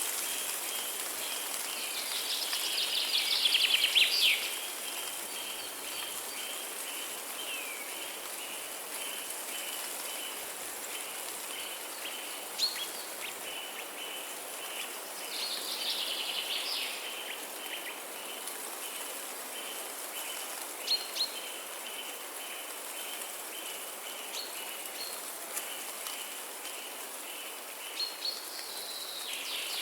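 Forest birdsong over a steady hiss: two loud, rapid twittering songs about two and fifteen seconds in, and a few sharp single chirps. A short high note repeats at an even pace in the background.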